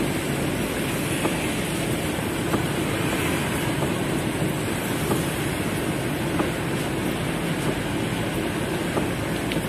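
Heavy rain falling on a car's roof and windows, heard from inside the cabin: a steady dense hiss with a low rumble underneath and scattered sharper drop hits.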